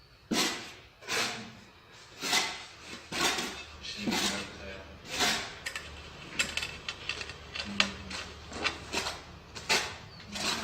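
Repeated scraping strokes of a mason's trowel working mortar or tile adhesive, about one stroke a second, with small clicks and knocks between them.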